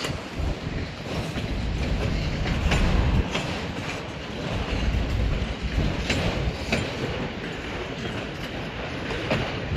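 Long freight train rolling past: a steady low rumble of steel wheels on rail, broken by sharp clacks that come in pairs as the wheel trucks cross a rail joint.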